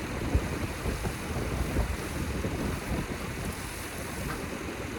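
Strong wind buffeting the microphone: a steady rushing with uneven low rumbling gusts.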